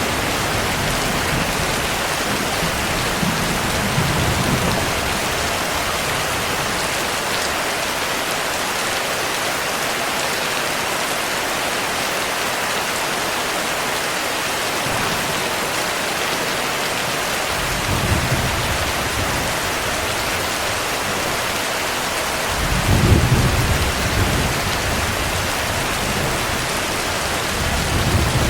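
Steady heavy rain, with low rolls of thunder swelling several times; the loudest roll comes about two-thirds of the way through.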